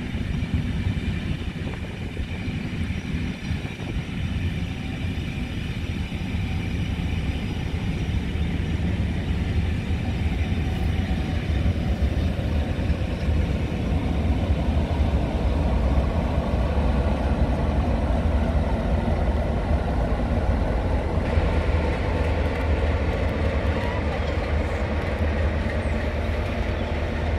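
Charter train's coaches running past on the rails, a steady low rumble of wheels and bogies. From about 21 seconds in, the Sulzer engine of the trailing Class 47 diesel locomotive 47805 joins in as it draws up.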